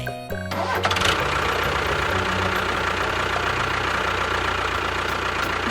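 An engine running steadily with a fast, even knocking pulse, setting in about half a second in.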